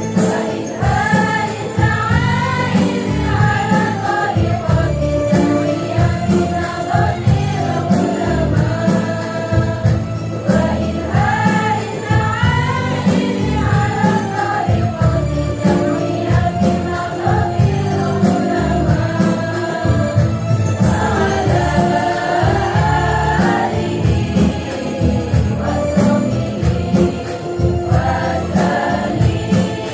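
Women's choir singing an Islamic devotional song together over a rhythmic accompaniment with a steady bass beat and jingling tambourine-like percussion.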